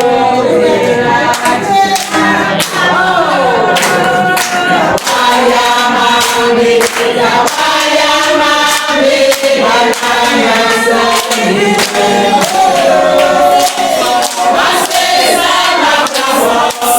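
A group of voices singing together, with frequent sharp percussive strikes in time with the song.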